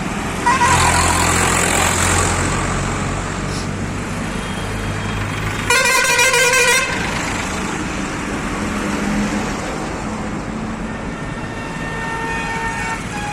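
A heavy motor vehicle's engine running, with a loud horn blast lasting about a second, about six seconds in.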